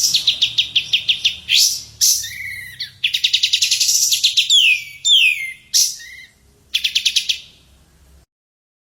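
A songbird singing in short phrases: fast trills of rapidly repeated notes alternating with quick downward-sweeping whistles, the song stopping abruptly near the end.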